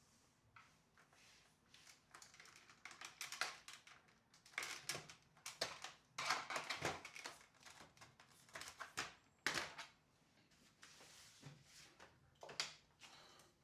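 Irregular clicks, taps and rustles, some in quick clusters, of hands handling hard plastic parts.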